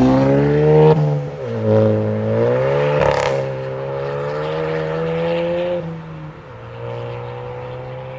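Suzuki Swift Sport ZC33S's 1.4-litre turbocharged four-cylinder through a custom sport exhaust, revving. The pitch falls as the throttle lifts about a second in, climbs again with a sharp pop about three seconds in, holds steady, then drops to a lower steady note around six seconds.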